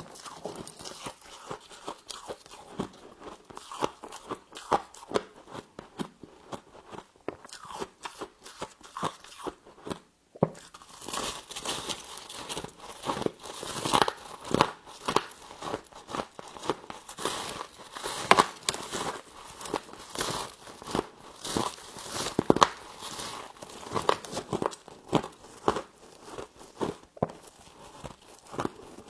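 Close-up biting and chewing of crisp frost, a dense run of irregular crunches and crackles. There is a brief silent break about ten seconds in.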